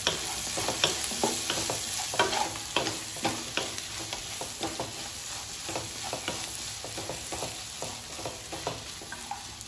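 Chicken pieces and green chillies sizzling in oil in a nonstick wok while a wooden spatula stirs them, with frequent short scrapes and knocks against the pan. The fry is well roasted and close to done.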